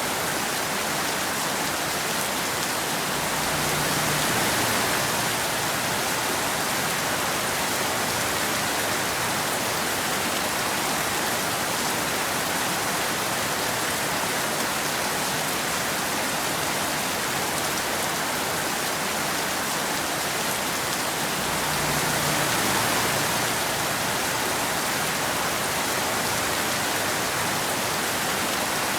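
Steady rain falling on a road, an even hiss that swells slightly twice, each swell with a faint low rumble underneath.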